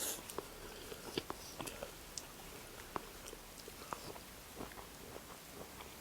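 A person chewing and eating food, with soft irregular mouth clicks and smacks.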